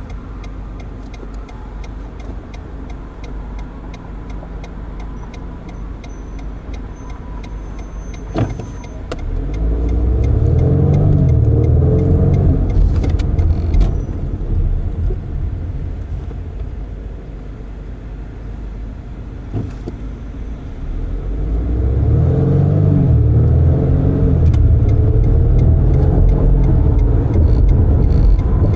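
Car and traffic noise heard through open windows while driving: a steady low road rumble that swells loudly twice, about a third of the way in and again past the middle, with an engine note rising and falling each time.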